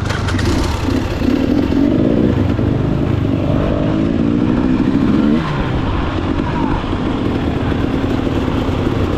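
Motorcycle engines running as the riders set off. One engine revs up, its pitch rising for about two seconds before dropping sharply a little over five seconds in.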